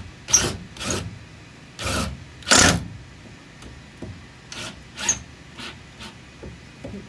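A series of short, rough scraping or rubbing strokes, four strong ones in the first three seconds, then several lighter ones.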